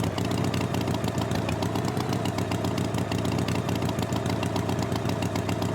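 Tractor engine idling steadily with an even, rapid chug.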